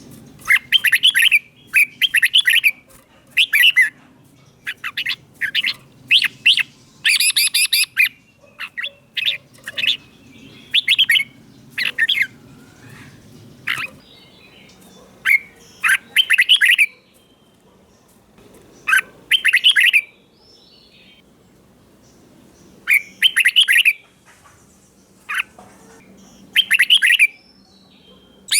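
Red-whiskered bulbul singing: short, bright chirping phrases repeated in quick runs, with pauses of a few seconds around the middle and again later on.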